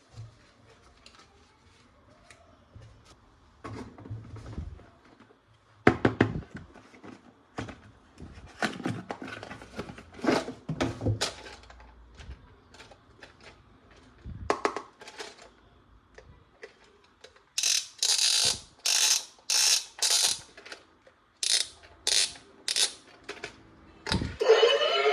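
Plastic toy guns being handled, with scattered clicks and rattles. Near the end come about seven short hissy bursts in quick succession.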